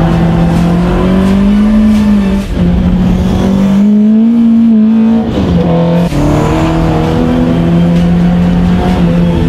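Classic Alfa Romeo four-cylinder twin-cam engine pulling hard on a mountain road: the revs climb, drop at a gear change about two seconds in, climb again, break off briefly for another shift around five to six seconds in, then hold steady.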